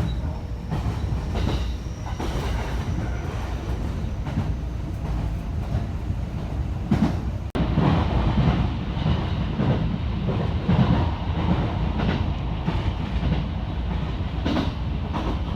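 Electric train running on the track: a steady low rumble with clacks of the wheels over rail joints. About halfway through, the sound jumps abruptly to a louder stretch.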